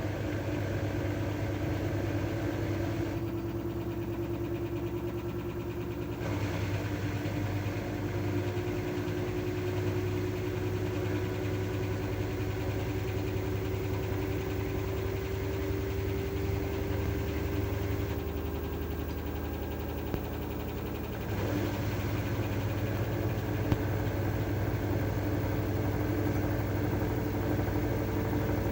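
LG F12A8ND front-loading washing machine running mid-cycle, with a steady motor hum and a whine that rises slowly in pitch as the drum turns faster. The hum eases briefly twice.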